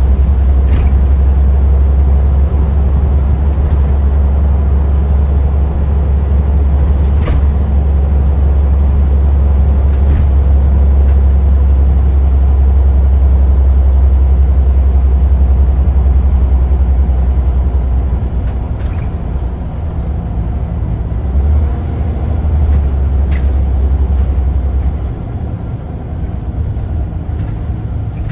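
Scania L94UA articulated bus running with a loud, steady low engine rumble, easing off and getting quieter near the end, with a few scattered faint clicks.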